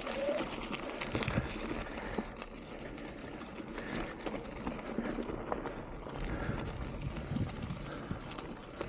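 Mountain bike rolling over a rough, wet trail: steady tyre and trail noise with irregular clicks and knocks from the bike.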